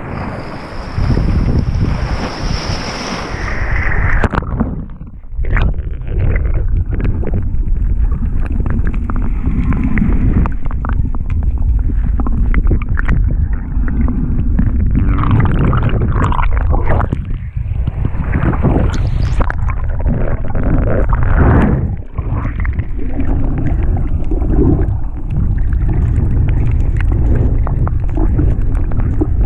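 Water sounds picked up by a GoPro action camera in its waterproof housing: a steady low rumble with irregular knocks and sloshes as water moves around the housing.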